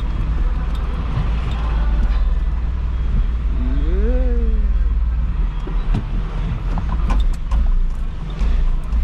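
Isuzu FRR90 truck's diesel engine running steadily while driving. A brief pitched sound rises and falls about four seconds in, and a few clicks come near the end.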